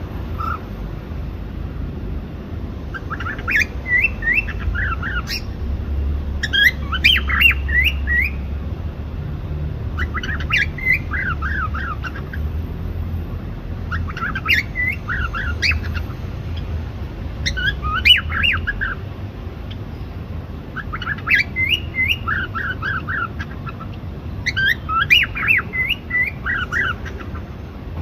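Cockatiel chirping and singing in short phrases of quick rising and falling chirps, a phrase every three to four seconds, over a steady low hum.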